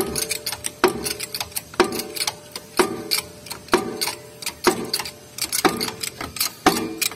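Metal hammer blows on a diesel engine's cylinder liner or its puller, as the liner is being worked out. The blows fall about once a second, each ringing briefly, with lighter metal clinks in between.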